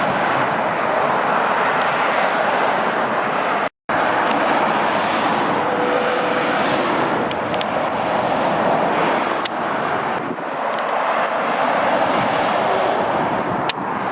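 Steady road traffic: a continuous rush of tyres and engines from lorries and cars going past. It cuts out for a split second about four seconds in.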